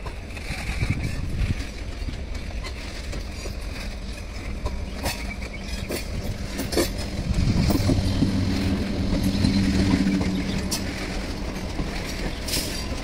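MEMU electric multiple-unit passenger train approaching and passing close by at speed: a steady rumble of wheels on rails, broken by a few sharp clicks as the wheels cross rail joints. A louder low steady hum comes in about seven and a half seconds in, as the front of the train goes by, and fades a few seconds later.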